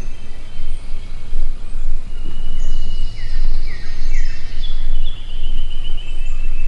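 Songbirds calling in the background, with three short whistled notes about three seconds in and a trill a little later, over a steady, loud low rumble on the microphone.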